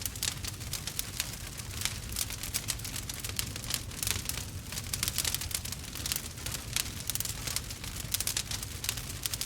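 Burning wood fire crackling and popping steadily, with many small irregular snaps over a low rumble.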